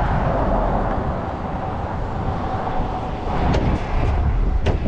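A heavy truck engine runs steadily with a low rumble and a faint steady whine. Two or three short sharp clicks come near the end.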